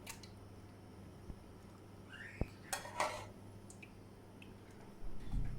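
Serving spoon clinking and scraping against a cooking pot and plate as food is dished out: a few scattered clinks and scrapes over a low steady hum.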